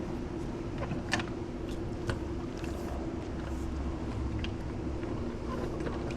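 Steady hum of a swimming-pool pump running while the pool is vacuumed, with scattered light clicks and knocks over it.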